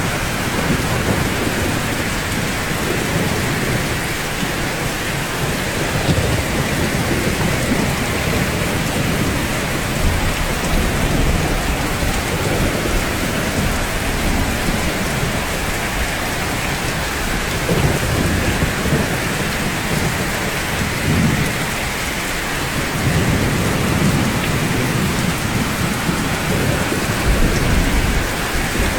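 Steady rain falling, with low rumbles of thunder swelling and fading now and then, most strongly in the second half.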